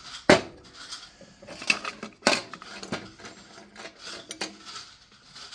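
Small hard objects, most likely metal, clinking and clattering as they are handled on a hard surface. A series of knocks, the two loudest about a third of a second in and just after two seconds, with lighter clinks in between.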